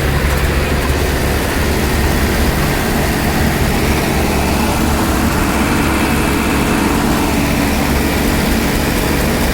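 Tractor engine running steadily and loudly under full load.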